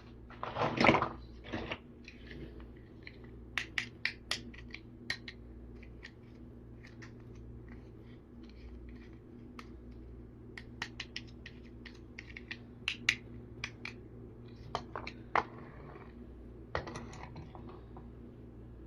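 Small plastic toy vehicles being handled, making scattered clicks and knocks, with a louder knock about a second in, over a steady low hum.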